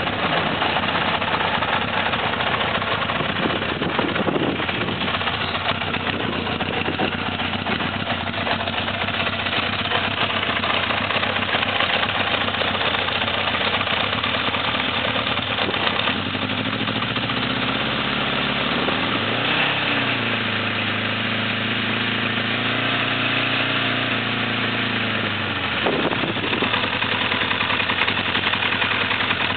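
1982 Honda CB900F's air-cooled inline-four engine idling steadily at about 1200 rpm with no throttle, firing on all four cylinders after a cold start on a near-freezing day. Past the middle a second pitched hum comes in, dips briefly, and stops about ten seconds later.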